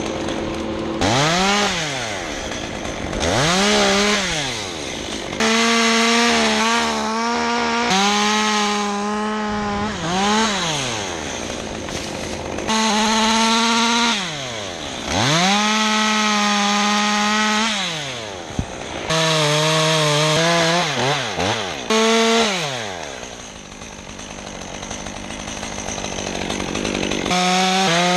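Two-stroke chainsaw revved to full throttle about ten times, held high for one to three seconds each while cutting wood, and falling back toward idle between cuts.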